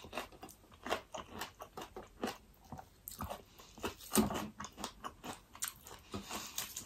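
A person chewing food close to the microphone: a run of irregular soft clicks and small crunches. Fingers mix food on a plate alongside.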